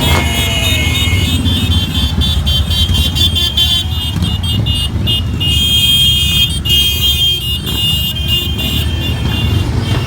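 Motorcycle engines running, a steady low rumble, with music playing over it.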